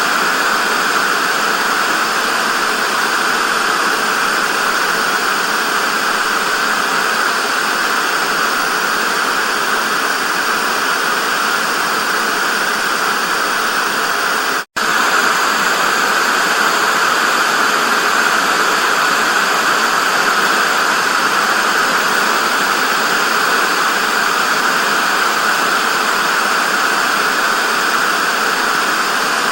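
TV static: a steady, even hiss that cuts out for an instant about halfway through.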